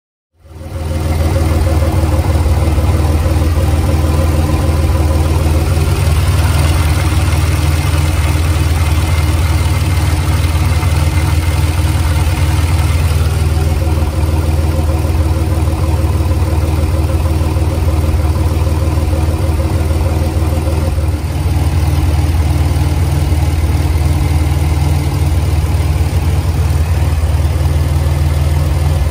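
Supercharged GM 3800 Series II V6 (L67) with an Eaton M90 supercharger idling steadily, with its balance shaft removed. It fades in just after the start.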